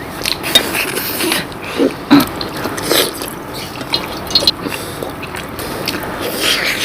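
Eating sounds as rasgullas are chewed and handled: a run of irregular small clicks and knocks close to the microphone, with a few brief voice sounds around the middle.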